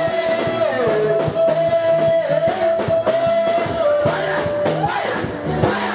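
Church praise band music: a long sustained lead note over a repeating bass line, with guitar and a steady drum beat.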